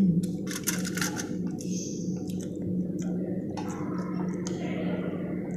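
Close-up wet chewing and mouth sounds of someone eating grilled fish, with a few clicks and brief rustles as the fish is picked apart by hand, over a steady low hum.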